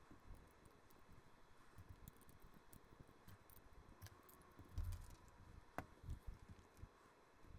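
Faint clicks and soft knocks of LEGO plastic bricks being handled and pressed together during a build, with a couple of louder knocks about five and six seconds in.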